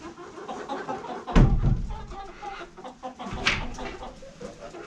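Chickens clucking, with a short sharp call about three and a half seconds in. A heavy low thud about a second and a half in.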